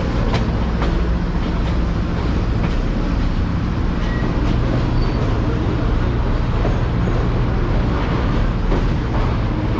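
Excursion train rolling along the track, heard from aboard: a steady rumble of wheels on rail with a low, even drone underneath and a few faint clicks.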